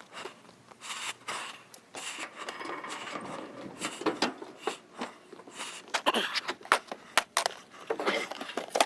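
Irregular knocks, clicks and scrapes, the handling noise of hands-on work.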